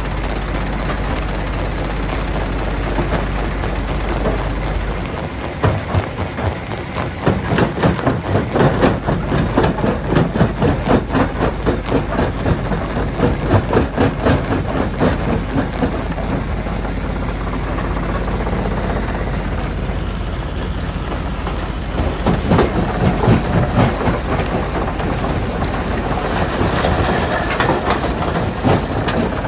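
A heavy diesel machine running while rocks clatter and crash in a long run of impacts that starts about five seconds in, eases off, and picks up again near the end.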